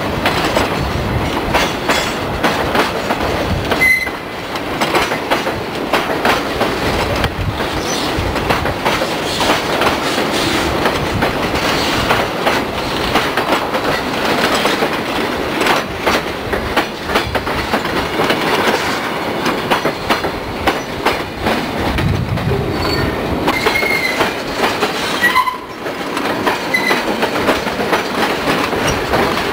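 Freight cars of a mixed train rolling past close by: steel wheels clacking over rail joints with steady metallic clanks and rattles. A few brief, high wheel squeals come through, once about four seconds in and again late on.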